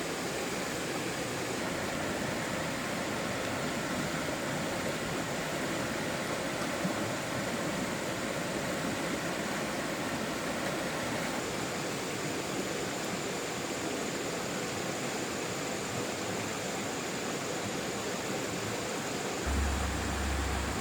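Stream water rushing steadily, an even wash of noise, with a low rumble coming in near the end.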